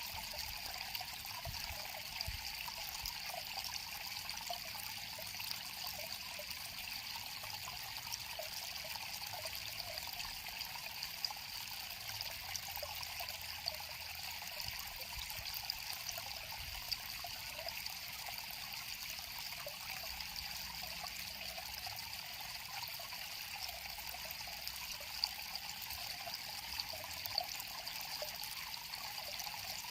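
River water flowing in a steady, even trickle, with many small splashy ticks throughout.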